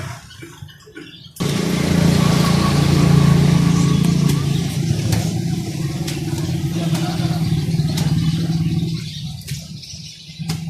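An engine running steadily with a low hum. It cuts in abruptly about a second and a half in and fades near the end.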